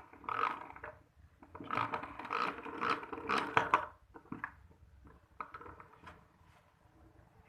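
Irregular mechanical scraping and clicking, in a short spell at the start and a longer one about halfway through, then a few scattered clicks.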